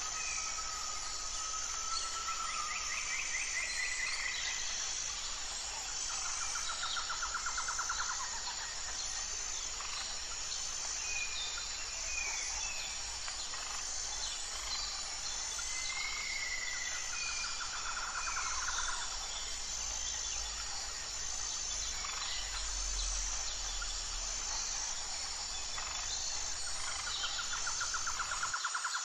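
Forest birdsong ambience: several birds giving short whistles and chirps, with a rapid trill that comes three times, about ten seconds apart, over a steady high hiss.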